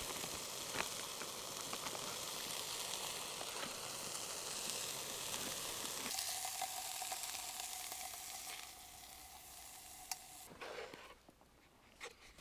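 Kokanee salmon fillets sizzling as they fry in oil in a camp pan, a steady sizzle that thins about halfway through and dies away near the end.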